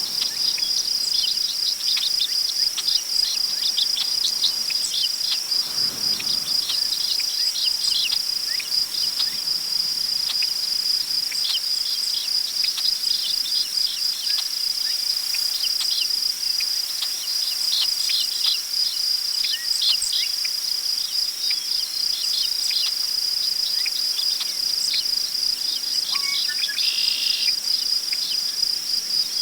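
Crickets trilling in a continuous high, steady chorus, with scattered short bird chirps and a light prairie wind rustling tall grass underneath. A slightly longer bird call comes in near the end.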